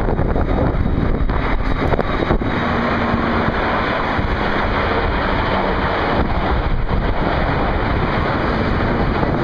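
Steady, loud rushing roar of military jet aircraft flying overhead, mixed with wind buffeting the microphone.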